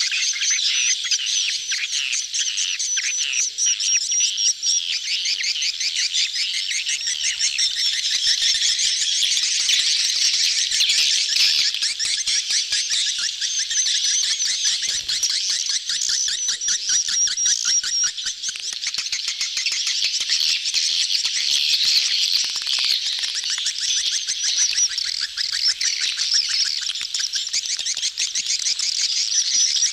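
A dense crowd of swiftlets twittering continuously, with rapid overlapping chirps and no break. These are a swiftlet colony's courtship calls, played as a lure call for a swiftlet house.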